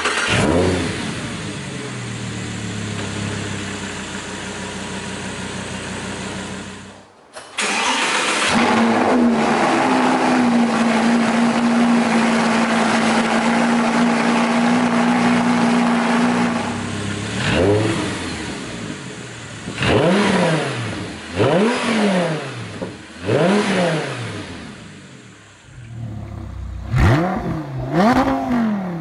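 Audi R8's 5.2 FSI V10 cold-starting and running on the stock exhaust. After a short break it fires up through the Fabspeed valvetronic exhaust, holds a steady fast cold idle, then is blipped repeatedly, each rev rising and falling quickly.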